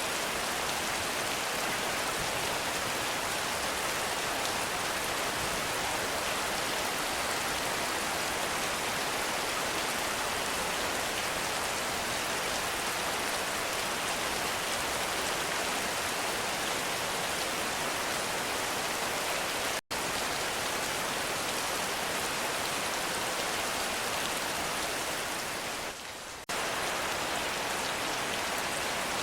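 Heavy rain falling steadily as a dense, even hiss. It cuts out for an instant about two-thirds of the way in, then dips for half a second near the end.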